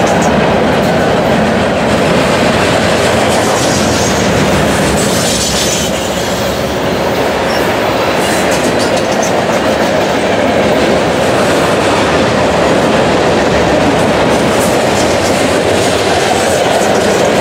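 Mixed freight train of covered hoppers, pipe-loaded flatcars and boxcars rolling past close by. The steel wheels run loud and steady on the rails, with scattered clicks and clanks from the cars.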